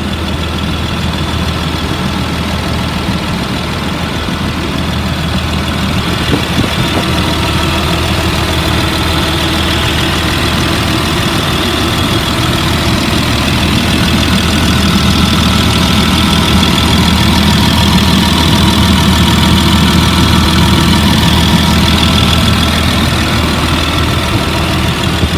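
A 2004 Blue Bird All American school bus engine idling steadily, heard up close. It grows somewhat louder partway through. It runs smoothly, with no sign of trouble.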